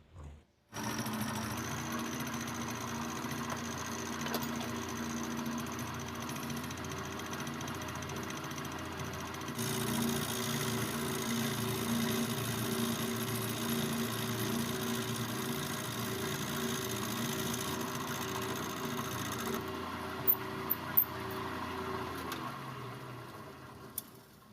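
A machine tool's electric motor running steadily with a steady hum. The high end of the sound changes about ten seconds in, and a few sharp clicks come near the end before it fades out.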